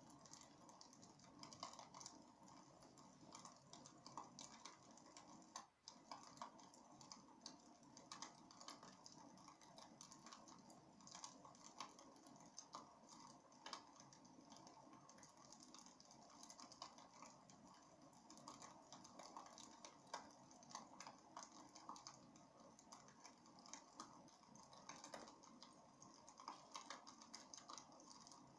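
Faint crackling of a wood fire in a fireplace: irregular sharp pops and snaps over a soft steady hiss.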